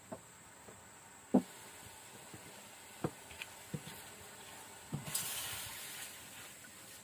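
A few sharp knocks of a utensil on a wok, the loudest about a second in, then a burst of sizzling just after five seconds in that fades away over about a second and a half: food going into hot oil in a wok.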